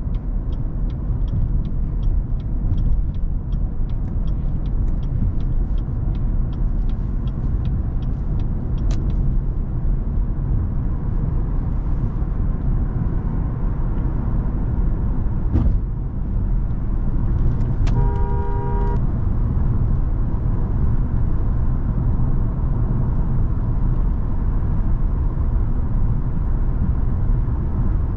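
Cadillac CTS 3.6 twin-turbo V6 car heard from inside the cabin, running steadily with a constant low engine and road rumble. A quick, steady ticking runs through the first nine seconds, and a horn sounds for about a second roughly two-thirds of the way through.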